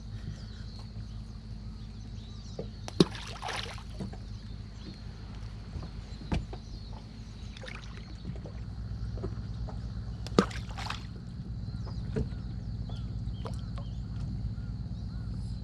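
Water slapping and lapping against the hull of a small anchored fishing boat over a steady low rumble, with four sharp knocks, two of them followed by a brief splash.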